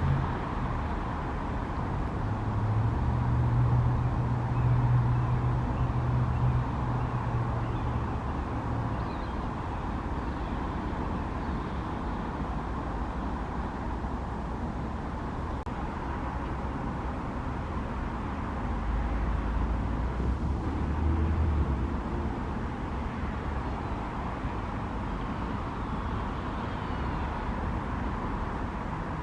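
Steady road traffic noise with the low rumble of passing vehicles, swelling from about two to seven seconds in and again about twenty seconds in.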